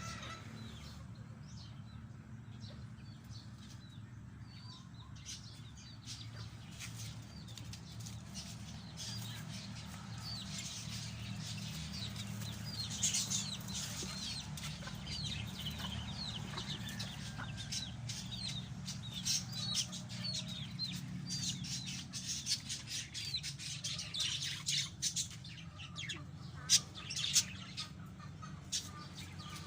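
Pet lovebirds chirping in many short, high calls that grow busier from about a third of the way in, with wing flapping. There are a few sharp, louder knocks near the end, over a steady low hum.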